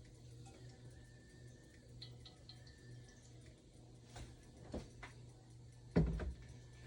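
Oil heating in a frying pan, giving faint scattered ticks and small pops over a steady low hum, with a knock about six seconds in.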